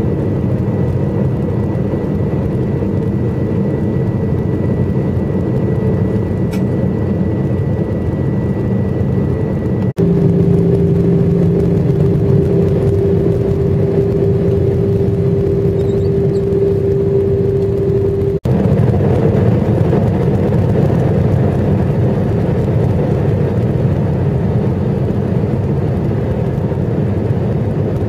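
Steady roar of a jet airliner cabin on approach, engines and airflow running, with a thin steady whine over it. About ten seconds in, the sound breaks off for an instant and comes back slightly louder, carrying a stronger low hum. That hum ends at a second brief break near eighteen seconds.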